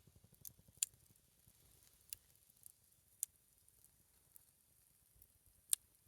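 A single firewood log burning in a small campfire, crackling faintly with a handful of sharp, irregular pops; the loudest come just under a second in and near the end.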